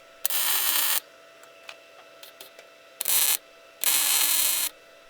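Small 110-volt welder laying three short tack welds, each a burst of steady arc crackle: the first under a second, a very short one about three seconds in, and a last one of just under a second. They are tacks only, to hold the hitch receiver in place before full welding.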